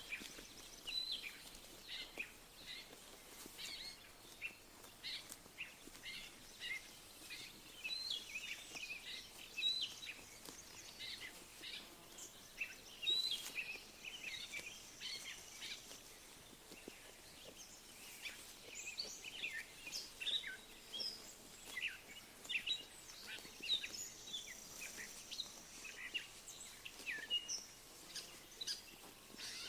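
Small birds chirping: a steady run of many short, high chirps, often overlapping, over a soft outdoor background hush.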